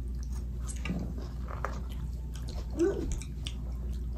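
Close-miked eating sounds: wet chewing and small mouth clicks as spaghetti is eaten, with a brief voiced hum-like sound about three seconds in.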